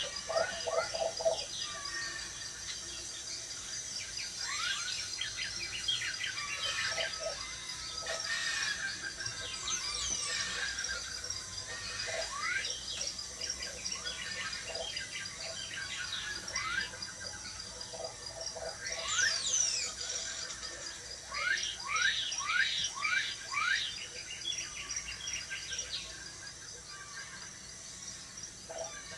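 Birds chirping and calling: many short rising and falling whistles, with a quick run of rising calls a little past the middle.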